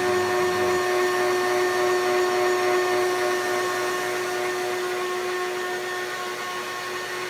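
Vacuum cleaner motor running steadily with a constant whine, seconds after being switched on.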